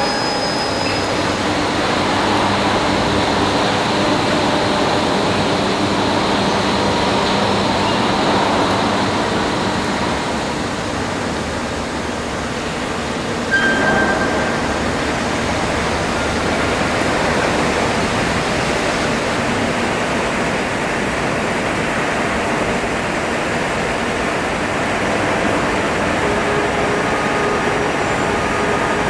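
Steady rail-traffic noise: an even rushing like a train running, with faint steady tones in it, and a single knock with a brief ring about fourteen seconds in.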